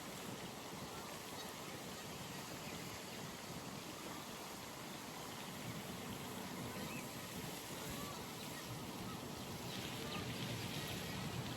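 Pond ambience: a steady low hiss with faint waterfowl calls scattered through it, a little louder and busier near the end.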